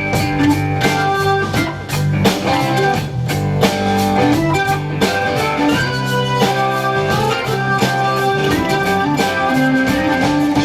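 Live band playing an instrumental passage with electric guitar, bass and drum kit, at a steady beat.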